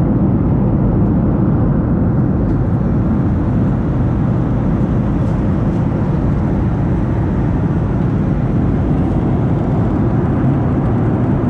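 Loud, steady, low rumbling noise with no clear tone, like wind and road noise from a moving vehicle.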